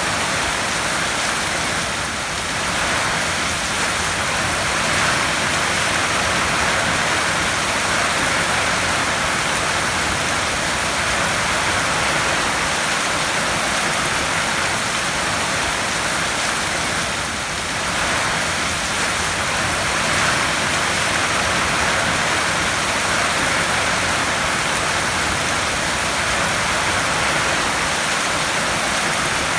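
Heavy rain drumming on a tin roof: a dense, steady hiss of drops on sheet metal with no separate events.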